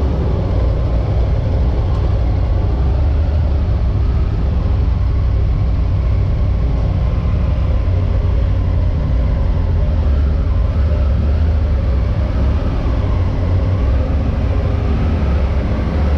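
Steady road noise of a motorcycle underway: a low engine rumble mixed with wind rush.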